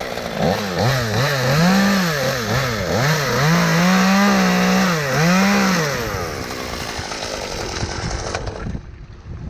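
Two-stroke chainsaw revved up and down over and over, the engine pitch rising and falling about once a second and held high for about a second midway, then dropping away after about six seconds. A steady hiss carries on afterwards and cuts off sharply near the end.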